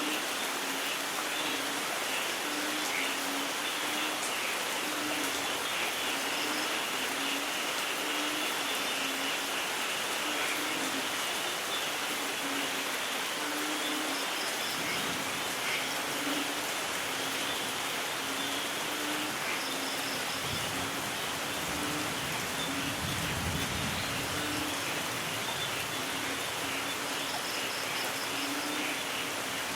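Steady rain falling, with a low rumble of distant thunder swelling and fading about two-thirds of the way through.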